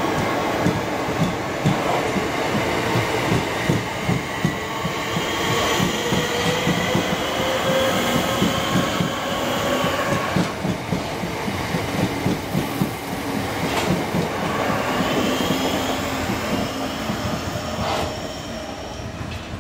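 Southeastern electric multiple unit passing close by, its wheels clattering over rail joints in a quick clickety-clack under whining tones that rise and fall in pitch. The sound fades near the end as the train draws away.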